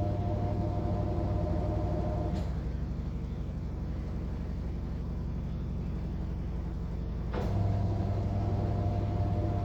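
A steady mechanical hum: a low drone with a higher tone above it. About two and a half seconds in, a click is followed by the hum dropping to a lower, thinner level. About seven and a half seconds in, another click brings the full hum back.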